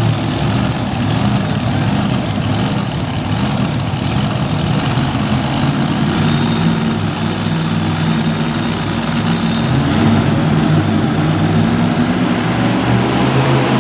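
Super modified two-wheel-drive pulling truck's engine running steadily at idle with a deep, even tone, getting a little louder about ten seconds in.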